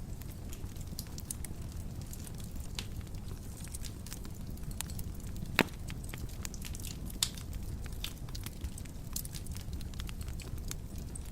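Wood fire burning in a fireplace: a steady low rumble with irregular crackles and pops, one loud pop about halfway through.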